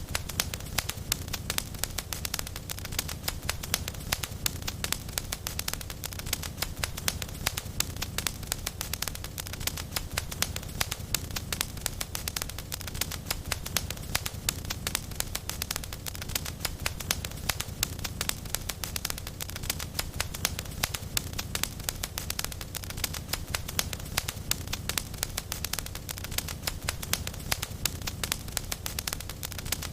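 Wood fire crackling in a fireplace: a dense, irregular stream of sharp pops and snaps over a steady low rumble, with no let-up.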